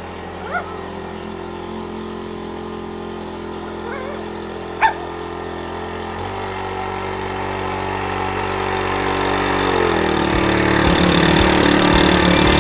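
Briggs & Stratton 14.5 hp OHV engine on a garden tractor running after a cold start, its first run in over six years. Its speed changes twice, and it grows louder toward the end. Two short, high chirps sound about half a second in and near five seconds in.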